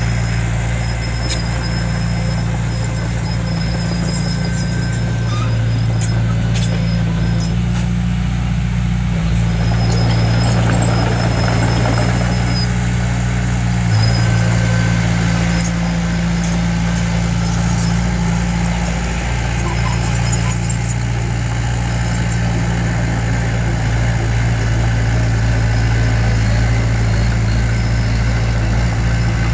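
Diesel engine of a small crawler bulldozer running steadily, with faint intermittent high squeals and clicks over the drone.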